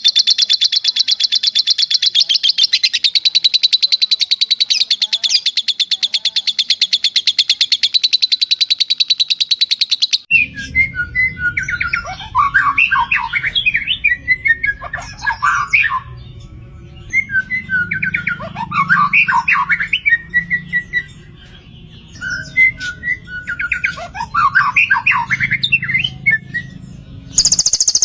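Recorded cage-songbird song for a bird-training track: a long, very fast trill that cuts off about ten seconds in. After it come three warbling song phrases over a steady sound of running water, and near the end another high, fast trill starts.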